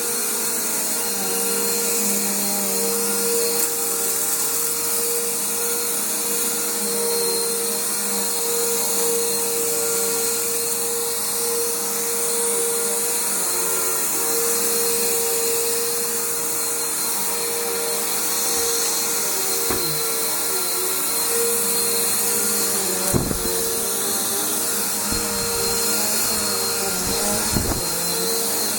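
Bissell Powerforce bagged upright vacuum running steadily over carpet, its motor holding a constant pitch, with a few brief knocks in the second half.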